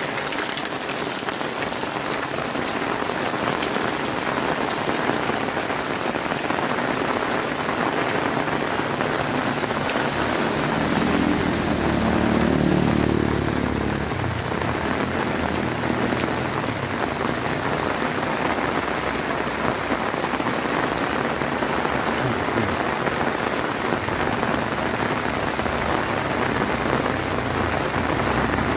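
Heavy rain pouring down in a steady, dense hiss. About a third of the way in, a low rumble swells up under the rain, then fades back but lingers faintly.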